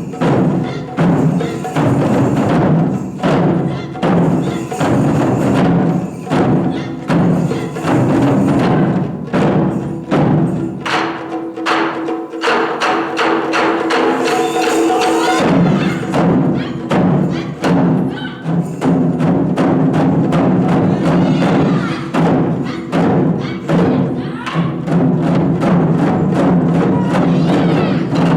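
Japanese taiko drums played live in a fast, dense rhythm. About ten seconds in, the big drums drop out for some five seconds, leaving sharp clicking strikes over a held tone, then the full drumming comes back.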